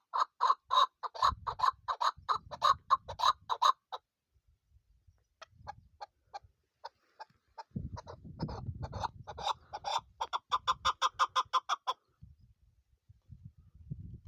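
Female chukar partridge calling: a fast run of short, repeated clucking notes, about five a second, then a few scattered notes and a second fast run that stops shortly before the end.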